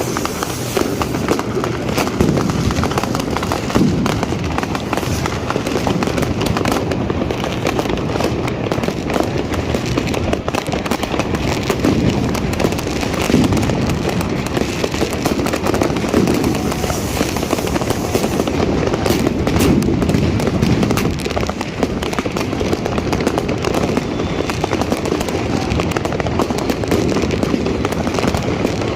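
New Year's Eve fireworks and firecrackers going off all at once, a dense, unbroken crackle of overlapping bangs that never lets up.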